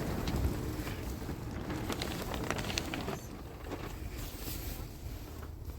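Wind buffeting the microphone in a low, uneven rumble, with scattered small clicks and crackles over the first three seconds.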